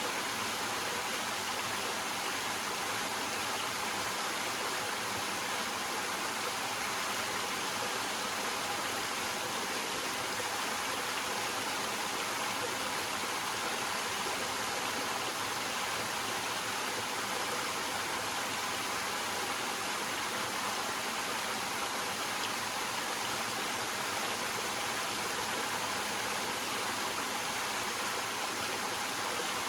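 Small waterfall: water flowing and splashing over rocks in a steady, unchanging rush.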